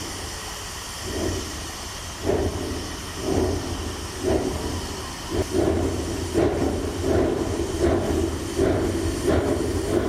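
Wood-burning narrow-gauge steam locomotive chuffing as it pulls away, its exhaust beats about a second apart and quickening, over a steady hiss and low rumble.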